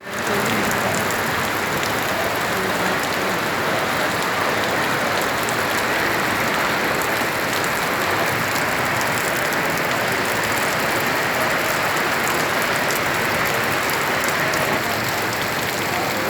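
Steady hiss of rain falling on hard surfaces, with many small drop ticks through it.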